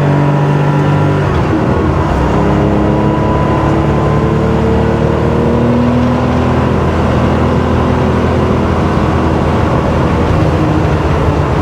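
Porsche 911 SC's air-cooled flat-six, converted to 3.2 litres, pulling hard under acceleration through its GT3-style exhaust. The engine pitch dips about a second in, then climbs steadily for several seconds as it revs up.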